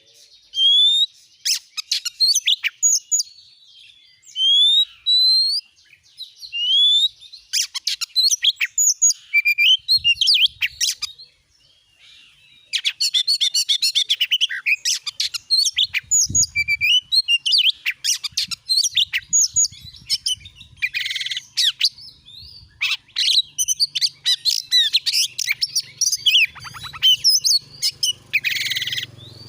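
Oriental magpie-robin (kacer) song: clear, rising whistled notes spaced apart at first, then after a short pause a dense, rapid run of varied whistles and chatter, the kind of full song used as a lure to set a caged magpie-robin singing.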